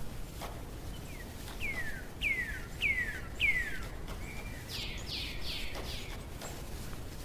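A songbird singing: four clear whistled notes, each sliding downward, then a short level note and a quicker run of higher falling notes, over a steady outdoor hiss with faint scattered ticks.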